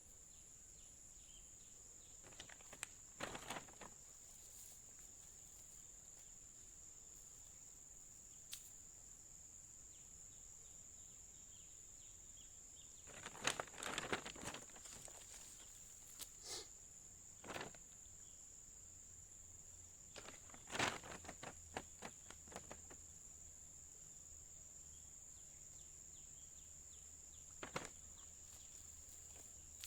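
Steady, faint, high-pitched drone of insects, with scattered brief rustles and knocks, the loudest a cluster about halfway through.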